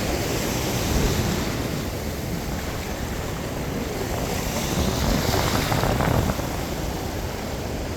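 Ocean surf washing onto the beach, with strong wind buffeting the microphone in a steady low rumble; the surf swells louder about five to six seconds in.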